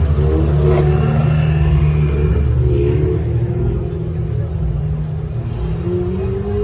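Ferrari 488 Challenge race car's twin-turbo V8 running at low revs as it drives slowly past close by, loudest in the first three seconds. A following Mercedes-AMG GT R's engine comes in after it, with a slight rise in pitch near the end.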